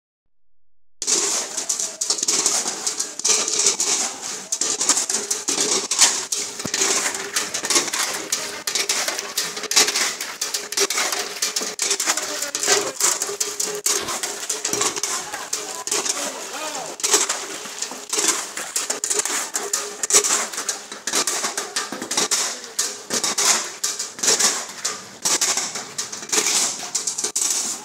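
Heavy rain pattering and splashing on flooded ground, a dense crackle of drops over a steady hiss, starting about a second in.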